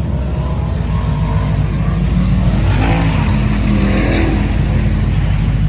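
Car engine running loudly with a deep rumble, its pitch rising and then falling about halfway through as it revs or drives past.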